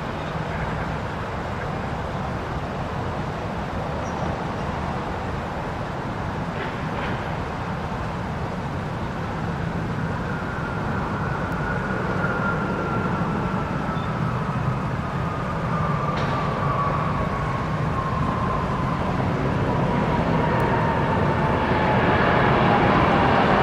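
Jet aircraft engine noise growing louder, with a single whine that slowly falls in pitch through the second half.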